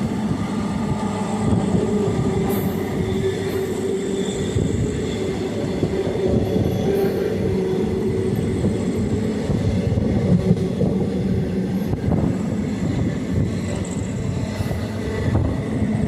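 Passenger train running steadily, heard from on board: a continuous rumble of wheels on the track with a few faint held tones over it.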